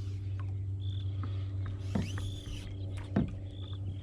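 Bird calls: a few short high chirps and one longer call that rises and then falls about two seconds in, over a steady low hum.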